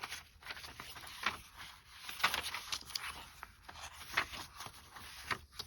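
Paper and card rustling and scraping as journal pages are turned and cards and tags in a pocket are handled, an irregular string of short crisp scrapes and clicks.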